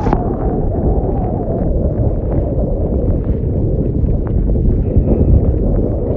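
Strong gusty wind buffeting the microphone: a loud, low, steady rush with no clear pitch, as a sudden windstorm sweeps across the lake.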